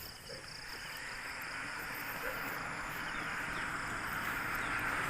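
A steady rushing noise that grows gradually louder, over a constant high-pitched drone of insects.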